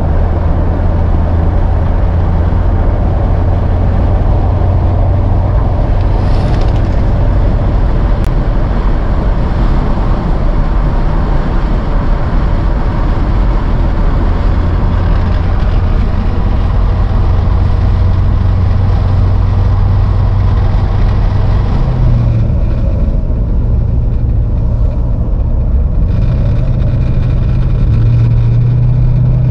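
A 1991 Chevrolet Corvette C4's 5.7 L V8 running under way, a steady low engine note over road and wind noise. About two-thirds of the way through the noise drops off and the engine note shifts, and near the end the note rises as the car picks up speed.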